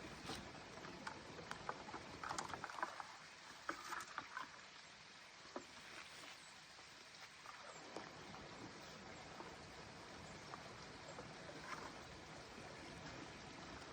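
Faint rustling and light clicks and knocks of wooden suet feeders being handled and hung on a tree branch, bunched about two to four and a half seconds in, with a few scattered ticks later, over a steady outdoor hiss.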